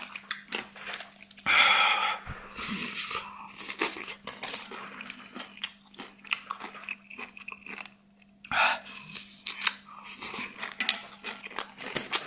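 Close-miked eating: chewing and biting with wet mouth clicks, and two louder breathy bursts about two seconds in and about eight seconds in. A faint steady hum lies underneath.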